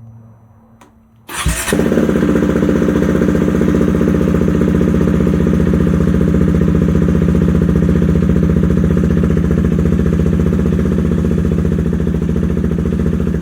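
Motorcycle engine cranked and started a little over a second in, then idling steadily.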